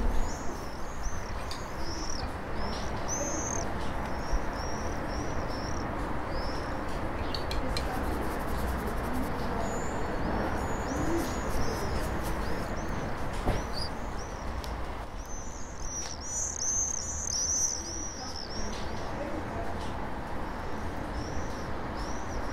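Small birds chirping over and over in quick, short calls, busiest towards the end, over a steady background noise.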